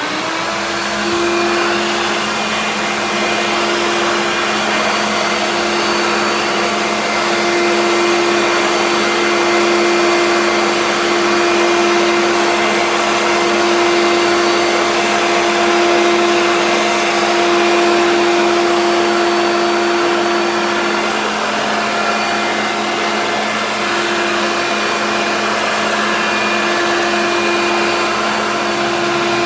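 Hoover upright vacuum cleaner running at full speed while vacuuming a bare hardwood floor: a loud, steady motor hum with a constant airflow hiss, the hum dipping briefly about two-thirds of the way through.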